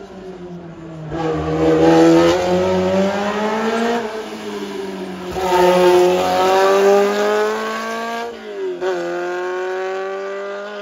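Historic rally car's engine revving hard under full throttle, its pitch climbing and then falling back at gear changes: a rise from about a second in, another after about five seconds, and a sharp drop near eight seconds before it holds steady.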